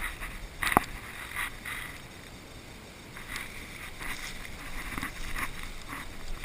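Irregular rustling and scuffing, with one sharp click just under a second in.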